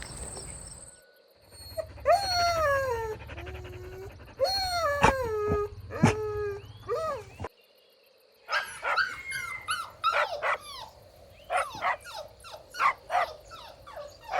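Puppies whining, with drawn-out cries that fall in pitch. About halfway through, this cuts off and gives way to a fast run of short, high-pitched yips.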